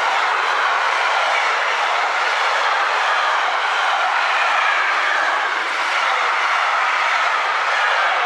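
Intermodal freight train's container wagons rolling past close by: a steady rolling noise of steel wheels on the rails, without distinct beats.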